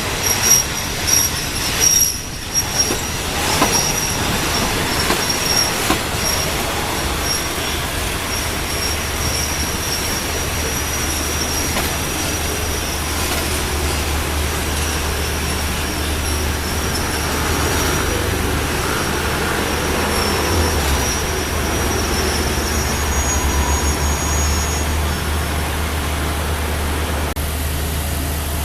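Train cars rolling past over a railway bridge, wheels knocking over rail joints in the first few seconds, with a thin high wheel squeal that comes and goes over a steady rumble.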